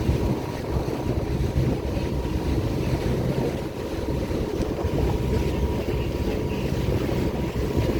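Cruise boat's engine running with a steady low rumble, with wind buffeting the microphone and a faint steady high tone over it.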